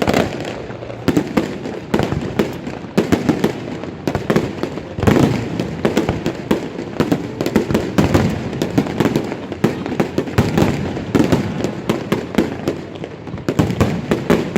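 A fireworks display: a dense, irregular run of sharp bangs and crackling shell bursts with no let-up.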